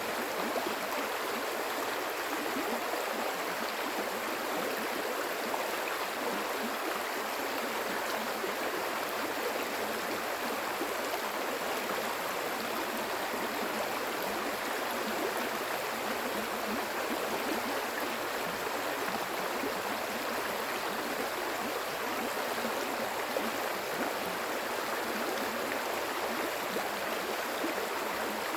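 Water in a stream flowing steadily, an even, unbroken rush of water.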